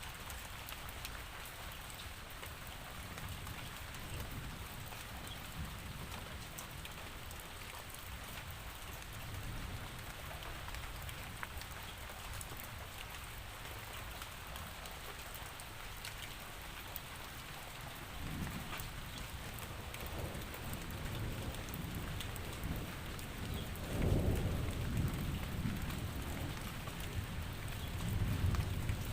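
Steady rain falling with scattered drop ticks, and low rumbles of thunder from about two-thirds of the way in, loudest about 24 seconds in and again near the end.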